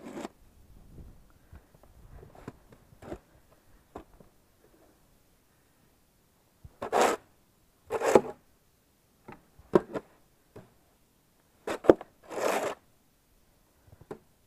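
Crunching and scraping in deep snow, in separate short bursts with a few sharp clicks between them, the loudest coming in pairs about halfway through and again near the end.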